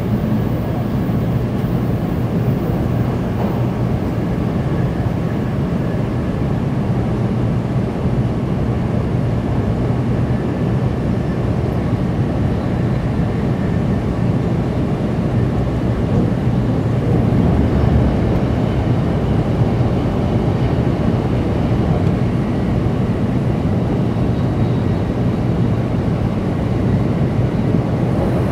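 700 series Shinkansen running at speed, heard from inside the passenger cabin: a steady low rumble of wheels on rail and rushing air.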